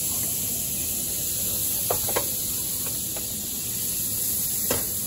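Pancake batter and melted butter sizzling on a hot griddle: a steady high hiss, with a few faint clicks about two seconds in and again near the end.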